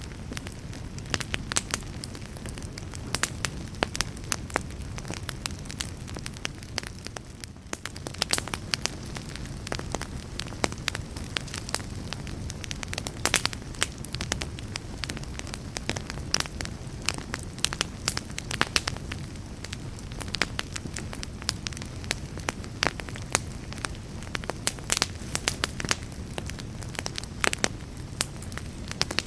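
Wood fire burning steadily, with frequent sharp irregular crackles and pops over a low rumble of flame.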